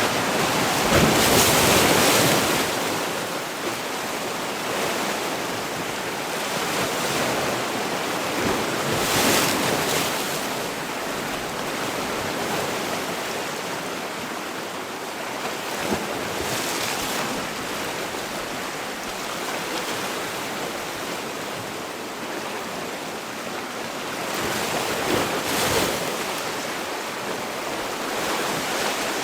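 Sea waves breaking on the shore in a continuous wash of surf, with louder breakers about a second in, near nine seconds, around seventeen seconds and near twenty-five seconds.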